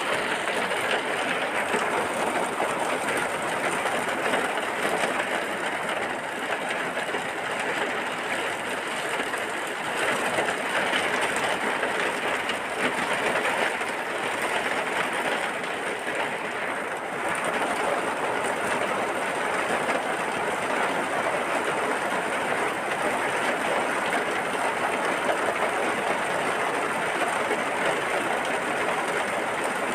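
Steady rain falling, a dense even patter with no breaks.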